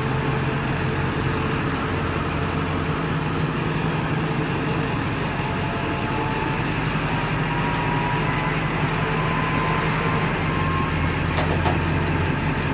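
1999 Ford F450 crane truck's engine running steadily at raised RPM with the PTO engaged, driving the crane's hydraulics as the boom is raised. A faint whine climbs slightly in pitch through the middle, and a single click sounds near the end.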